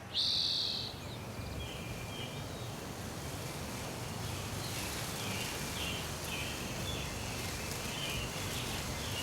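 Nature field recording: a loud, high bird call right at the start, then a run of short, high chirps repeating every half second or so over a steady background hiss.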